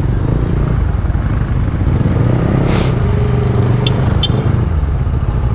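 Yamaha scooter engine running while being ridden, with road and traffic noise around it. A short rush of noise a little under three seconds in.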